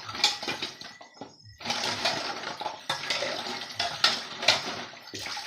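Dishes and cutlery being washed under running water in a sink, with water splashing and plates and spoons clinking. The splashing stops briefly about a second in, then starts again.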